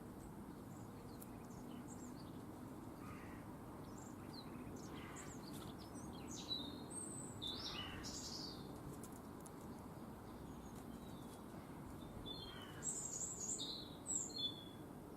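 Small garden birds giving short, high chirps and calls, scattered and loudest in a burst near the end, over a steady low background rumble.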